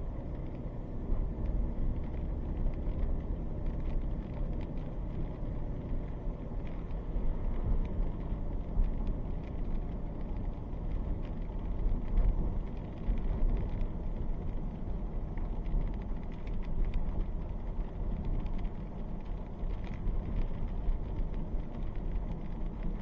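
A car heard from inside the cabin: a low, steady rumble of the running vehicle, with scattered faint ticks.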